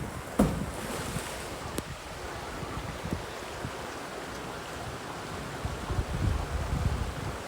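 Wind buffeting the microphone in gusts over a steady rushing noise, with a sharp knock about half a second in.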